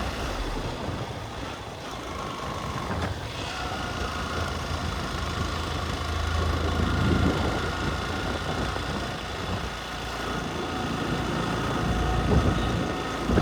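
Motorcycle engine running steadily while riding, with wind and road noise over the microphone.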